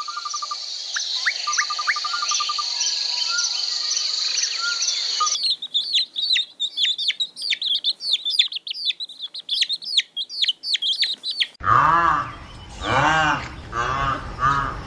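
Birds chirping and trilling over a steady high background hum, then a run of quick, falling chirps. About twelve seconds in, it cuts to a louder, lower-pitched animal giving short, repeated calls.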